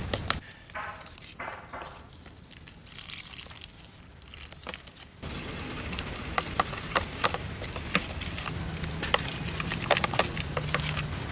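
Eggplant deep-frying in hot oil, a steady sizzle full of irregular sharp crackles and pops. It is quieter for a few seconds near the start, then the sizzle comes back louder about five seconds in.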